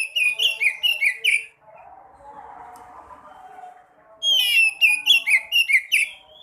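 Sekoci bird song: two loud bursts of about six quick, repeated whistled notes, each burst about a second and a half long, one at the start and one about four seconds in, with softer sound between them.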